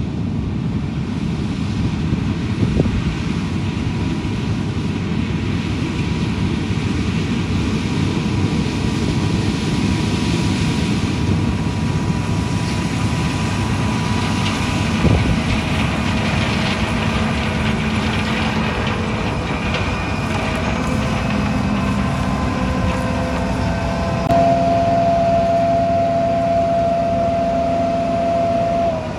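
Large vehicle engine running steadily with a heavy rumble. In the last third its note rises and then settles higher.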